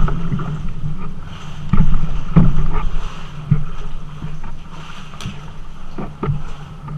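Kayak moving on river water, with a steady low rumble and several irregular knocks against the hull, the loudest about two seconds in.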